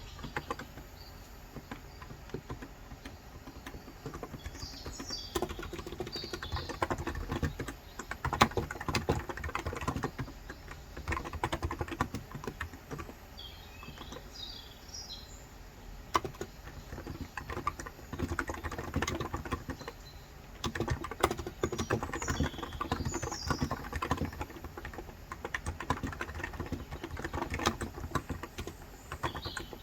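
Fast typing on a Cox Endeavor electrostatic capacitive tenkeyless keyboard with 35 g switches, coming in bursts of rapid keystrokes. Small birds chirp in short clusters several times.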